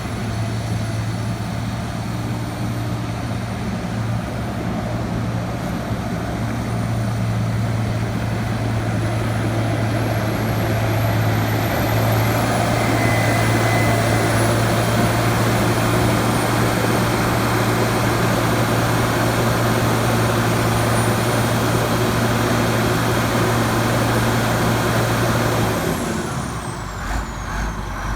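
Diesel engine of a Morgan SX706SB hydrostatic grapple skidder running steadily at speed, a little louder through the middle. Near the end it drops to idle, and a faint high whine falls in pitch as the machine slows.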